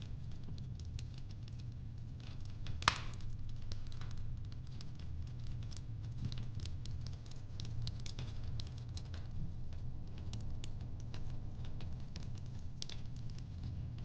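Fireplace crackling: a wood fire ticking and snapping irregularly over a steady low rumble, with one sharp loud pop about three seconds in.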